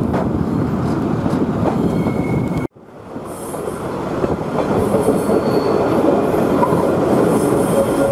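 Queensland Rail 2000 class diesel rail motor running along the track, its wheels rumbling and clacking over the rails, with faint wheel squeal on the tight curves. The sound cuts out abruptly under three seconds in and fades back up.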